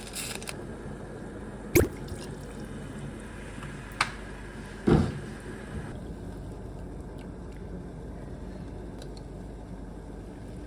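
Kitchen cooking sounds: a steady low hiss with a sharp click about two seconds in, another about four seconds in, and a heavier knock about five seconds in.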